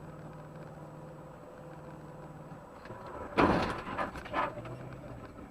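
Steady hum of a car's engine inside the cabin. About three and a half seconds in, a sudden loud noisy burst breaks in, followed by two smaller ones.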